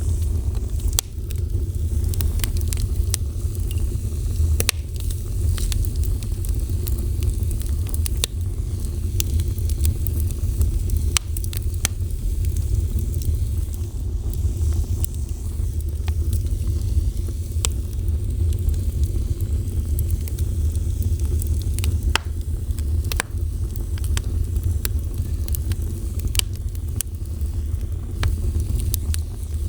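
Wood fire burning with a steady low roar and frequent sharp crackles and pops scattered throughout.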